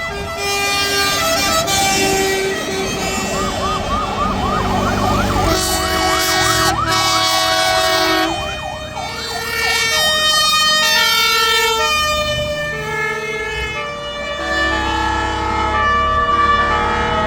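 Several fire engine sirens sounding together as the trucks pass: fast yelping sweeps in the first half, then steady tones that jump between different pitches, over the low rumble of truck engines.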